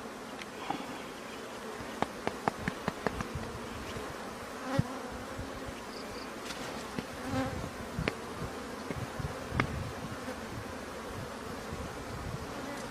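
A swarm of bees buzzing steadily around their opened nest, with scattered sharp clicks and knocks from handling the nest.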